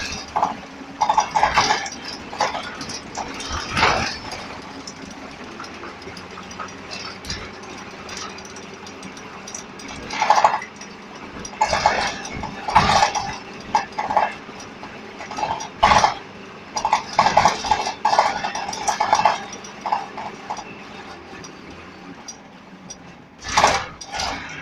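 A dog barking repeatedly in short clusters of barks, with gaps of several seconds between the clusters, over a steady low background rumble.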